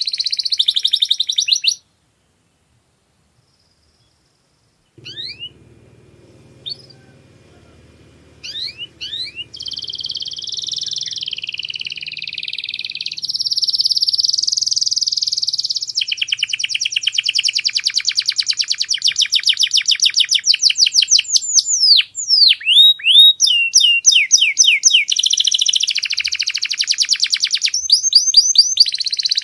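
Domestic canary singing: fast trills of rapidly repeated notes, rolling phrases and quick up-and-down glides. The song stops dead for about three seconds near the start, comes back as a few scattered chirps, then runs on as long continuous song.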